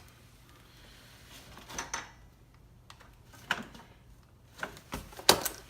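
A few scattered light clicks and knocks of parts and tools being handled on the ATV, with one sharper knock near the end.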